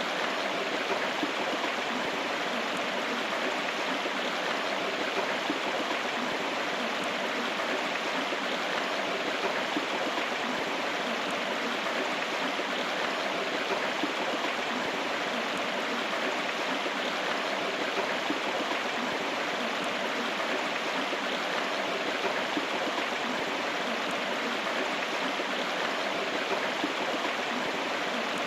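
River water flowing and rushing steadily over rocks, an even, continuous stream sound with no breaks.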